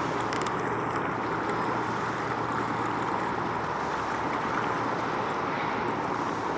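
Steady drone of a boat underway: a low engine hum beneath a constant rush of water and wind.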